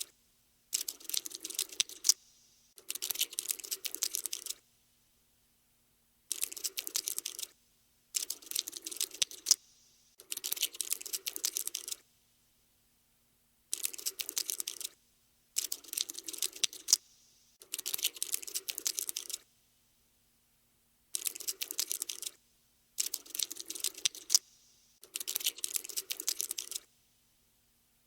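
Skittering sound effect of a cockroach scuttling: dry, rapid clicking in bursts of one to two seconds, separated by short silences.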